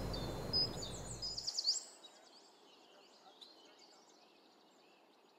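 Birds chirping in quick, pitch-sliding calls over a low drone. The drone cuts off about a second and a half in, and the chirps fade soon after, leaving faint hiss with a few faint chirps.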